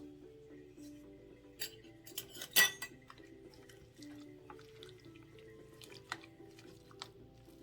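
A utensil clinking and scraping against a mixing bowl in a series of irregular knocks, the loudest about two and a half seconds in, as the chicken spread is stirred. Soft background music plays underneath.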